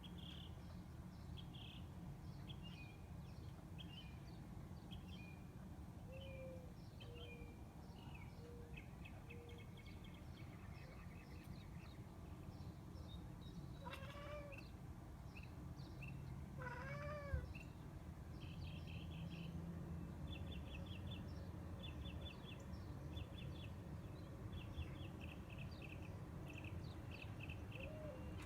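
Domestic cat chirping at birds: a few short, rising-and-falling chirps, a quick run of four, then single ones, the loudest about two thirds of the way in. Small birds chirp and trill high and fast throughout.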